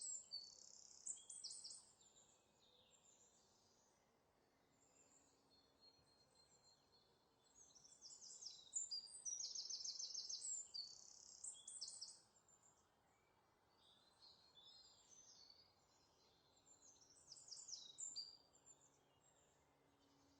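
Faint songbird song: bouts of high chirps and rapid trills, with quiet gaps between three song bursts.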